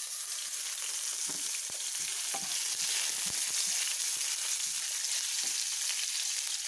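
Chopped garlic and ginger sizzling in hot oil with bay leaves in a frying pan, stirred with a wooden spatula. A few light knocks of the spatula on the pan sound over the steady hiss.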